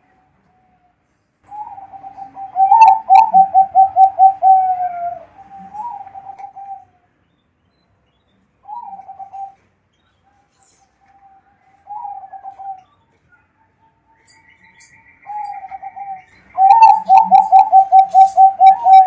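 Zebra dove (perkutut) cooing: phrases of rapid staccato coos, with two long, loud trilled series about 3 seconds in and near the end, and shorter single phrases in between.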